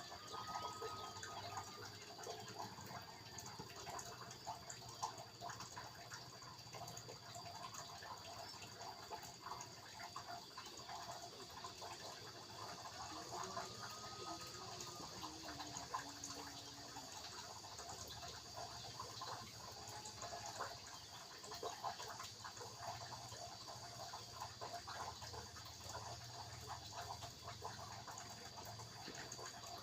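Faint countryside ambience: trickling, dripping water under a steady high-pitched tone, with a couple of short animal calls, one about half a second in and another around the middle.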